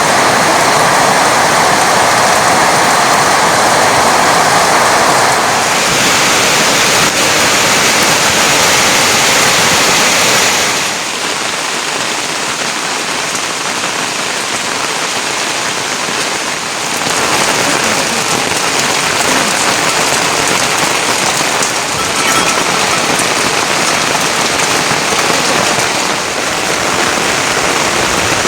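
Heavy rain falling steadily as a dense hiss. Its tone and loudness change abruptly about 6, 11 and 17 seconds in.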